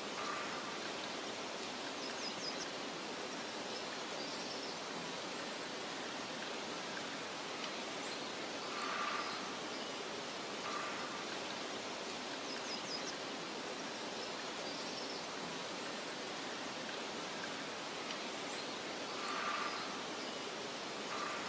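Steady soft rushing outdoor nature ambience with a few short, faint bird-like chirps over it. The chirps come back in the same pattern about every ten seconds.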